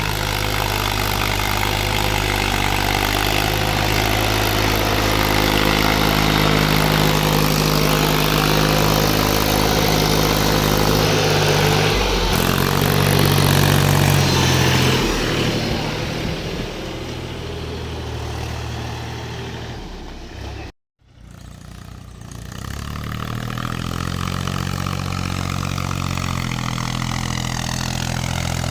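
Heavy diesel engine running steadily, its note shifting about twelve seconds in and then easing off. It cuts out abruptly after about twenty seconds, then a diesel engine runs again, its pitch gliding before it settles.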